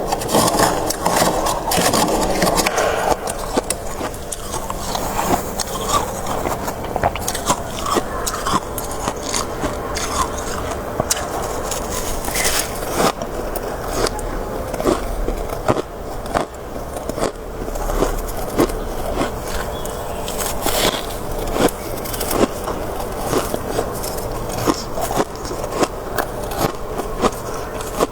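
Close-up chewing and crunching of crisp freezer frost (soft shaved ice): a dense, continuous run of small crisp crunches.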